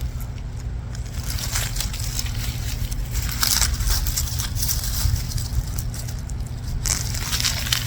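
Crisp crunching and rustling of green onions being picked by hand, in several short bursts over a steady low rumble.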